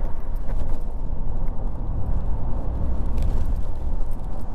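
Cab noise of a Ram 1500 with a 5.7L Hemi V8 and a Carven Competitor cat-back exhaust, coasting off the throttle at highway speed: a steady low rumble of engine and road, the exhaust barely heard, with a few light rattles.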